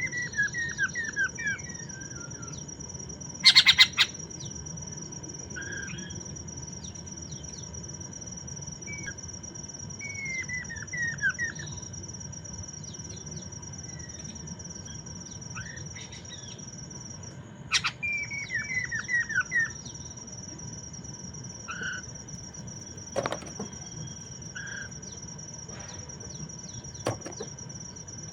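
Poksay mandarin (a laughingthrush) singing in three runs of quick, descending whistled notes, with a short loud harsh rattle about four seconds in and a few sharp clicks later on. A steady high-pitched insect buzz runs underneath.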